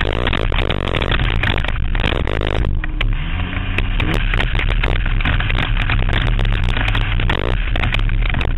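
Banger race car running hard, its engine rumbling under constant rattling, clattering and scraping from the battered car.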